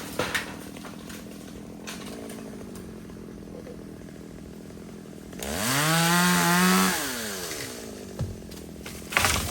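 Chainsaw idling, then revved up hard about five seconds in, held for about a second and a half, and let drop back to idle. A few short knocks come near the start and near the end.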